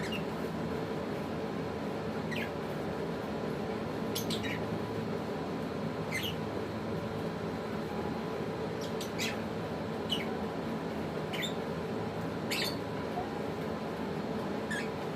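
African lovebirds giving short, sharp chirps, about ten of them spread irregularly across the stretch, each a quick high note sliding downward, over a steady low background hum.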